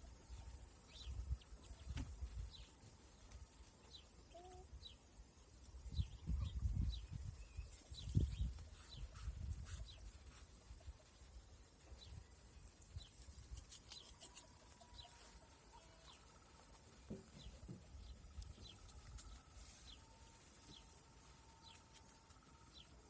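Small birds chirping faintly, many short high calls sliding down in pitch and scattered through the whole stretch, with low rumbling bumps in the first half.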